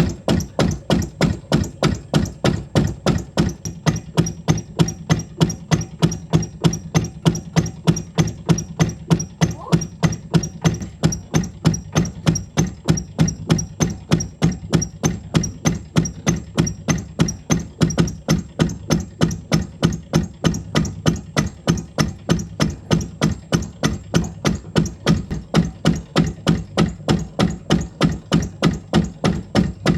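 Kashmiri willow cricket bat being knocked in by a bat-knocking machine: an even run of sharp wooden knocks, about three a second, over a steady low machine hum. The knocking hardens the bat's face.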